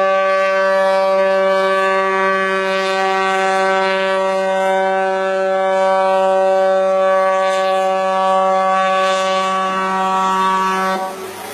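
A ship's horn sounding one long, steady blast at a constant pitch, cutting off sharply about eleven seconds in.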